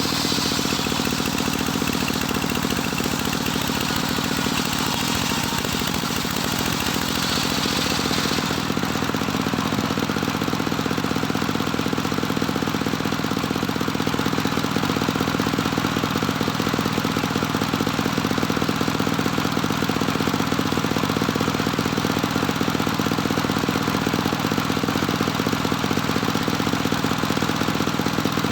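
Engine of a homemade circular saw machine running steadily. A higher hissing layer sits over it for the first eight seconds or so, then stops.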